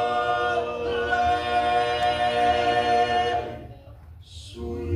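Male gospel quartet singing in close harmony: a long held chord that ends about three and a half seconds in, then, after a brief breath, a new chord entering on a hissed "s" and held near the end.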